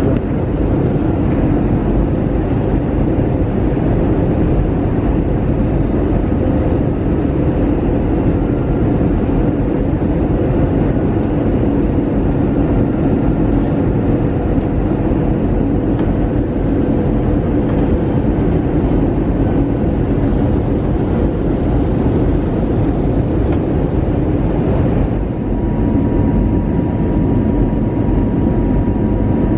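Steady cabin noise inside an Airbus A320-200: a constant rumble of engines and airflow. A faint steady tone joins it about 25 seconds in.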